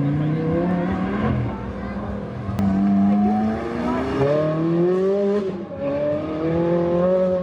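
Car engine accelerating hard, its pitch climbing in about four successive rising sweeps, each falling back before the next.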